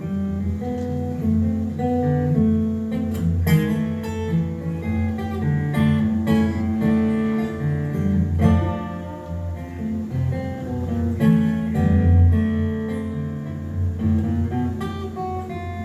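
Acoustic guitar playing an instrumental break in a slow blues song: picked melody notes over a steady bass line.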